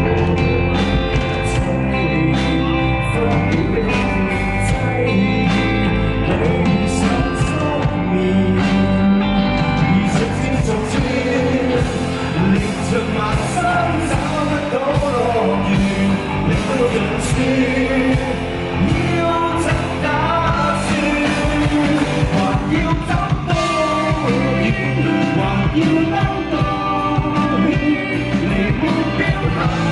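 Live band playing a rock-style pop song, with drums, bass and electric guitar and a wavering lead melody carried over the middle stretch.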